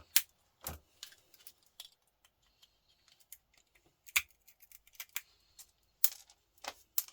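Pliers snipping and prying small components off a circuit board: irregular sharp clicks and snaps, with the loudest near the start, about four seconds in and about six seconds in.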